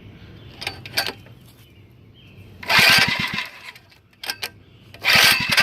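Mini bike's small engine cranked over twice with the spark plug wire disconnected, each about a second of fast, pulsing whirring. It is the sound the owner is worried about.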